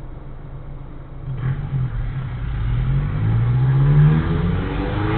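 Car engine accelerating: a low hum that starts climbing in pitch and getting louder about a second and a half in, dips briefly near the end and climbs again.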